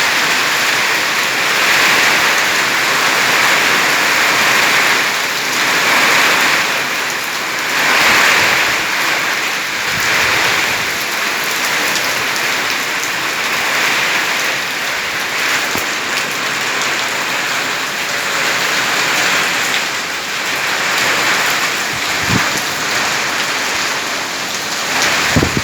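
Heavy thunderstorm rain pouring steadily, the downpour swelling and easing every couple of seconds, with two brief knocks near the end.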